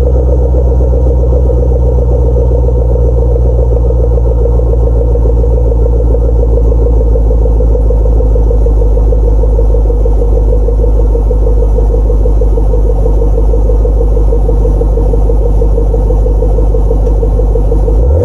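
2010 Camaro SS's 6.2-litre V8 idling steadily after a cold start, a loud, deep, even exhaust rumble through Flowmaster tips.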